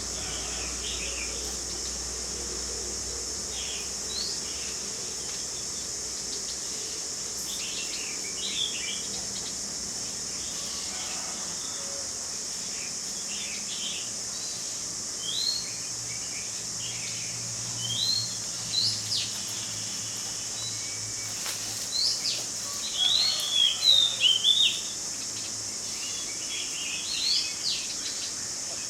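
Birds chirping: short, rising chirps scattered through, coming thickest about two-thirds of the way in, over a steady high hiss.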